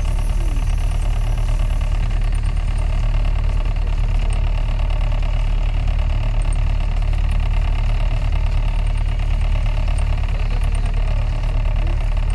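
Tour boat's engine running steadily: a loud, even low drone with no change in pace.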